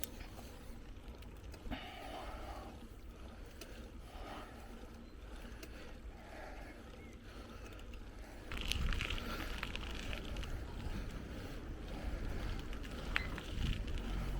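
Bicycle rolling along a forest track: tyre noise on the dirt with small rattles and clicks. The rumble grows louder about eight seconds in.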